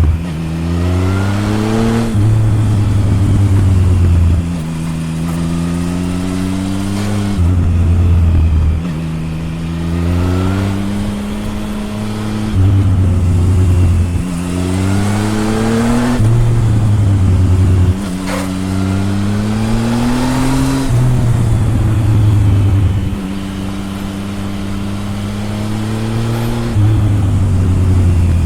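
Triumph Tiger 1050's inline three-cylinder engine heard through its exhaust, revving hard under acceleration. The pitch climbs again and again, then drops back each time the throttle closes or the next gear goes in.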